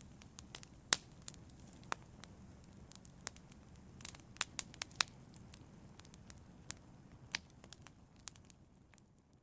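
Wood logs burning in a fireplace, crackling with irregular sharp pops over a low, steady rush of the flames. The fire sound fades away near the end.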